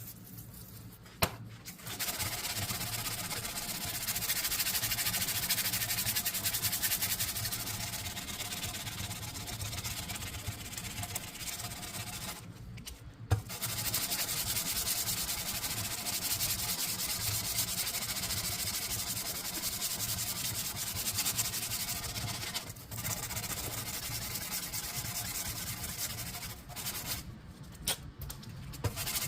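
Abrasive sanding, a steady rasping hiss in long continuous passes. It breaks briefly about 12 seconds in and again near the end.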